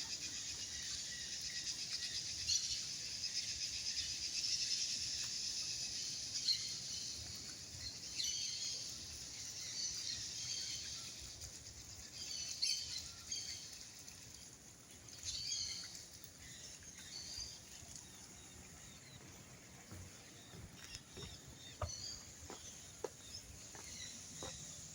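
Birds chirping over a steady high-pitched outdoor hiss, the chirps scattered and growing fainter in the second half.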